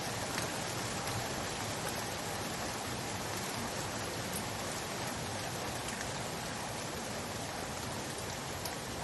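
Steady rain falling, an even hiss of many drops with a few separate drop ticks standing out.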